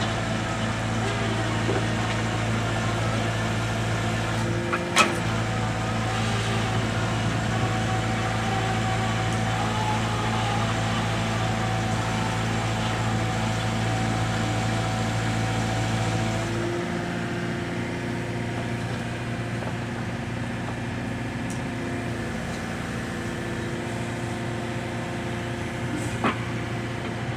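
Mini excavator engine running steadily, its note shifting lower and a little quieter about two-thirds of the way through, with a sharp knock about five seconds in and another near the end.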